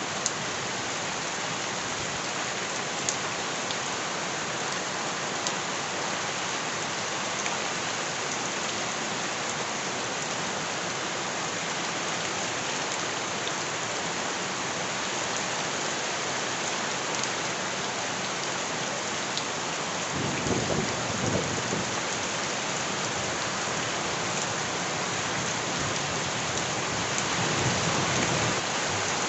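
Heavy rain falling steadily, an even hiss with a few sharp drop taps. A low rumble swells up about twenty seconds in and again near the end.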